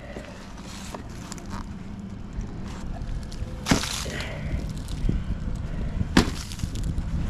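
Wooden beehive parts being handled: scattered light knocks and clicks, with two sharper, louder knocks, one about halfway through and one near the end.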